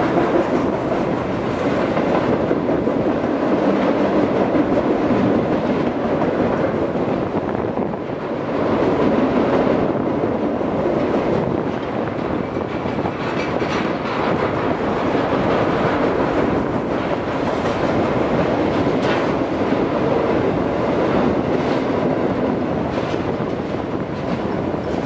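Cars of a long mixed freight train rolling past: a steady rumble of wheels on rail with scattered clicks over the joints.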